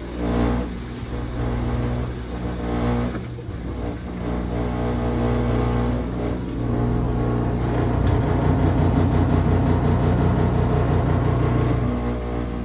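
Brastemp Clean washing machine's motor running with a steady hum. It surges every second or two at first, then runs evenly from about halfway.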